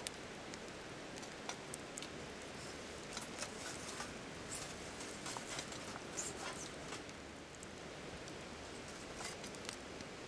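Wood fire crackling: irregular sharp pops and snaps over a soft steady hiss of the burning.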